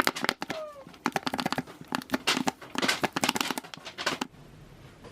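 A cat meows once, briefly, near the start, followed by about three seconds of dense crinkling and clicking that stops suddenly.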